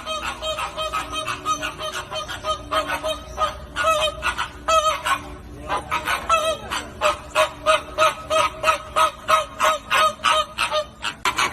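A flock of flamingos honking: many short, goose-like calls overlapping, turning into a regular run of louder honks, about three a second, in the second half.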